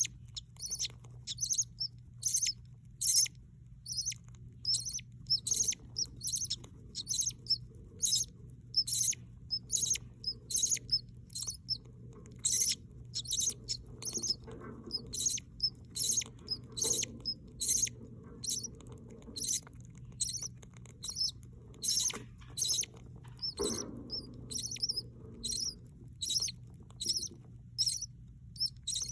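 Budgerigars chirping: short, high chirps repeated steadily at about two a second.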